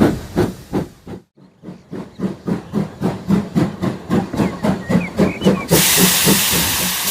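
Steam locomotive sound effect: an even chuffing of about four beats a second, which breaks off briefly about a second in and resumes, then gives way to a long steady hiss of steam near the end.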